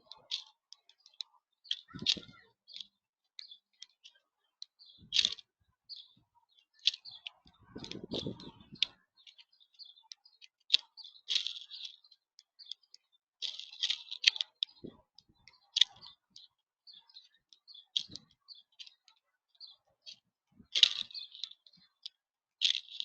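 Birds pecking and cracking seed at a feeder: a run of irregular sharp clicks and taps, with a few duller knocks against the feeder.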